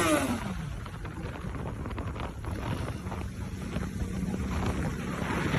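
Wind rumbling on the microphone with a faint, steady low engine hum, as the loud motorcycle revving dies away right at the start.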